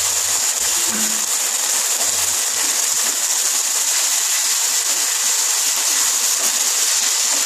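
Chopped onion, capsicum and tomato frying in oil in a non-stick pan, with tomato and chilli sauce just added, while a wooden spatula stirs them: a steady sizzling hiss.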